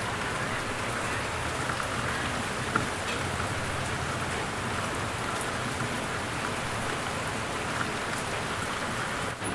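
Steady rain falling: an even hiss of drops with a few sharper drips.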